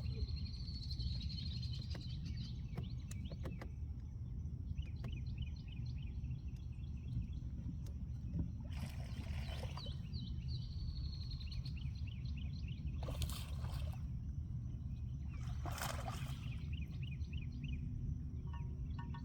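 Outdoor pond ambience: a steady low wind rumble on the microphone, with birds chirping in quick repeated calls. A few short rushing noises come around the middle and near the end.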